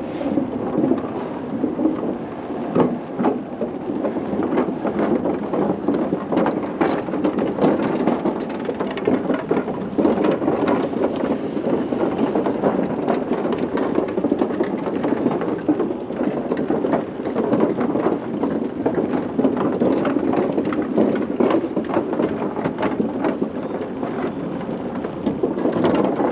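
Bicycle tyres rattling over the deck of a swinging suspension bridge: a steady, dense rumble packed with many small clicks and knocks.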